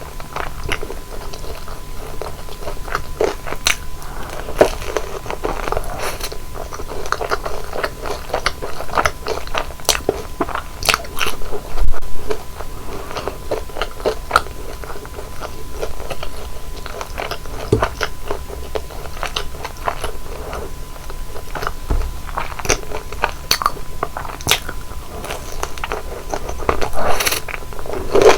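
Close-miked biting and chewing of deep-fried flower buns: the fried crust crackles and crunches with each bite, with softer wet chewing in between and a couple of louder bites.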